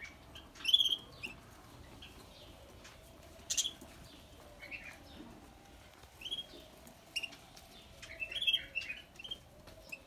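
Small aviary birds chirping in short, scattered calls a second or two apart, with a quick run of several chirps about eight and a half seconds in.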